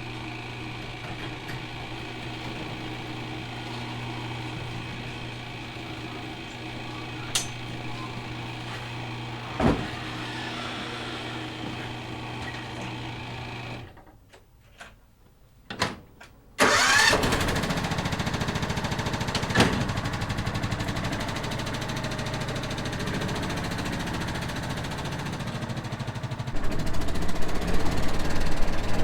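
An engine running steadily, with a couple of sharp clicks, then shut off about fourteen seconds in. After a short quiet with a few clicks, an engine starts abruptly and keeps running, getting louder near the end.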